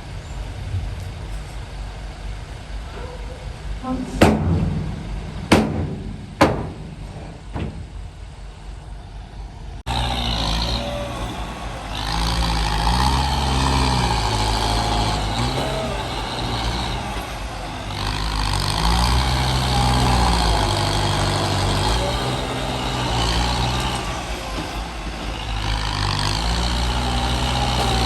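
Heavy diesel dump truck: about four sharp bangs in the first third, then the engine running loud with its revs rising and falling over and over.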